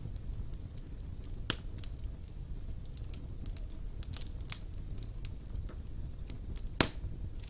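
Wood fire burning in a fireplace: scattered crackles and pops over a steady low rumble, with one sharp pop, the loudest, near the end.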